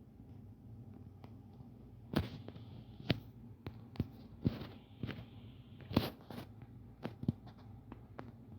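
Several short, light clicks and knocks over a steady low hum, the sharpest bunched in the middle.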